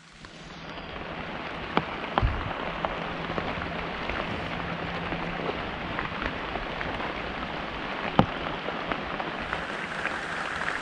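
Steady rain falling, with scattered sharper drop ticks, one louder tick about eight seconds in. The sound fades in over the first second.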